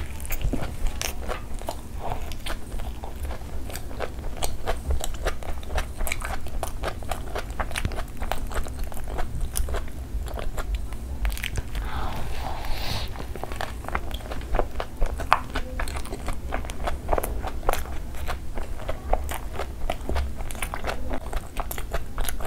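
A person biting into and chewing a burger close to the microphone: a dense run of short, sharp chewing clicks and crackles.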